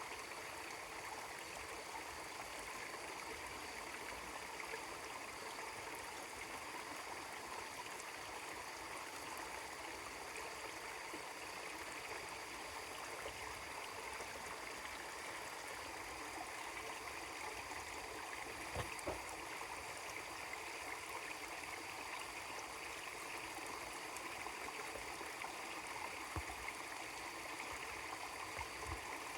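Small mountain stream in a calm, quiet flow, a steady rush and babble of water over rocks. A few brief low thumps come about two-thirds of the way in and again near the end.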